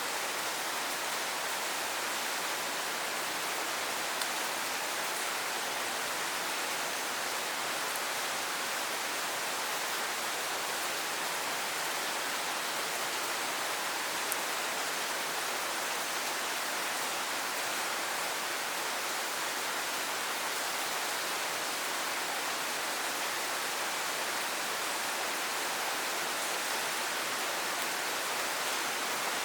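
Steady rain falling, an even hiss of rainfall with no let-up and a faint tick or two of drops.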